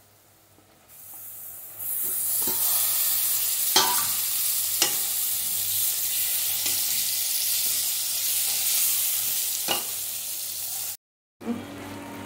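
Ground tomato paste hitting hot oil and spices in a kadai: a loud sizzle starts about two seconds in and keeps going while it is stirred, with a few sharp knocks of the spoon against the pan. It cuts off suddenly near the end.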